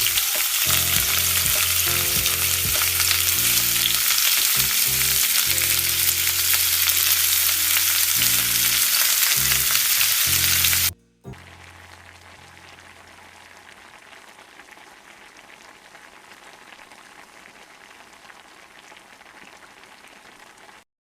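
Food frying with a steady, crackling sizzle, loud for about the first half, then cutting abruptly to a much fainter sizzle. Low sustained background music notes play under the louder part.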